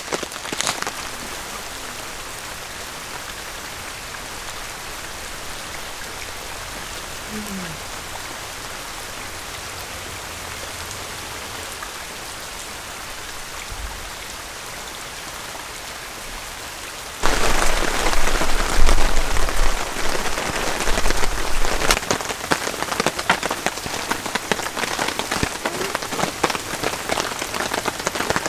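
Rain falling in a steady patter. About two-thirds of the way through it jumps abruptly much louder, with dense, close drops ticking on a surface.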